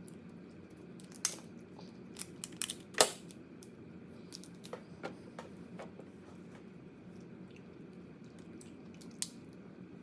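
Crab shell cracking and crunching as it is eaten by hand and mouth: a scatter of sharp cracks, the loudest about three seconds in, followed by smaller clicks and one late crack near the end.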